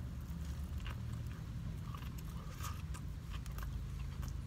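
Close-up chewing and biting of a turkey and provolone sub with shredded lettuce: wet mouth sounds with small irregular crunches, over a steady low hum.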